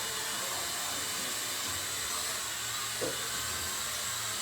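Toy helicopter drone's small electric rotors whirring steadily, a hissing whine, with a brief knock about three seconds in.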